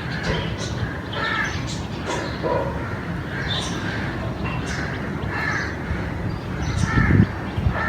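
Crows cawing repeatedly, about one short caw a second, over a steady low rumble, with a louder low thud about seven seconds in.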